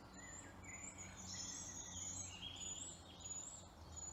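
Woodland birdsong: several small songbirds singing at once. One repeats a short, high, thin note over and over, while another warbles lower.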